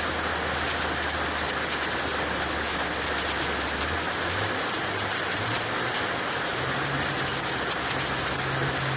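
A machine running with a steady low hum over an even hiss; from about four seconds in, the hum rises in pitch in steps, then holds steady.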